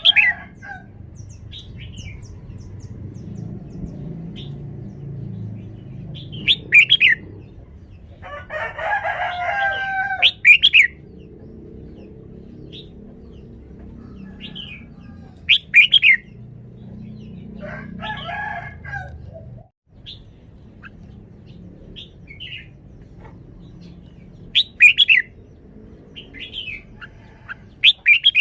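Red-whiskered bulbul singing short, bright whistled phrases every few seconds. Twice, a longer, lower, harsher call of a second or two sounds in between.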